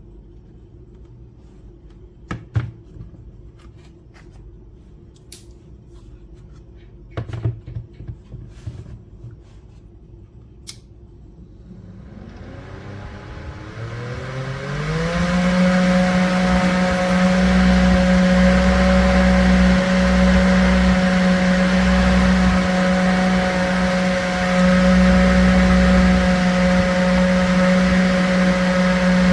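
A few sharp clicks of handling, then about halfway through a homemade table fan's small DC motor spins up, its whine rising in pitch for about three seconds before settling into a steady hum with the whir of the blades.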